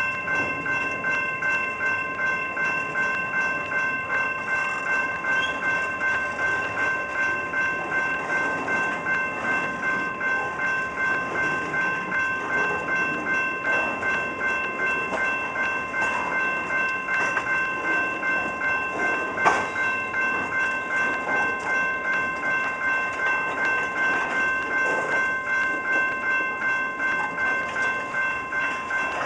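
Freight train's tank cars rolling slowly past, the wheels clicking over the rail joints in a steady rhythm, with a steady high ringing tone over it. One sharp clank stands out about two-thirds of the way through.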